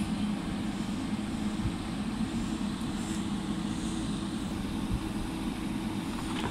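Steady mechanical hum of trains standing at a station platform, with a low drone that holds at one pitch.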